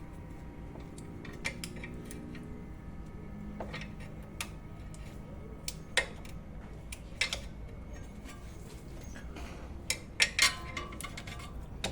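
Hand tools and metal parts clinking and clicking as a retaining clip is worked free at the foot of a car's shock absorber, over a steady low hum. The clicks come one at a time, then a quick cluster near the end.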